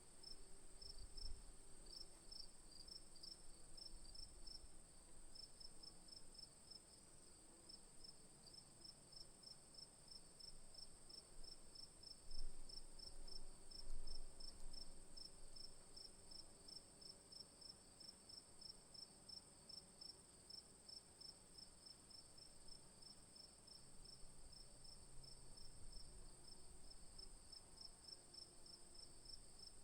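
Insects chirping in a steady high-pitched chorus: a continuous high drone with a rapid, regular pulsed chirp beneath it. A couple of low bumps come near the middle.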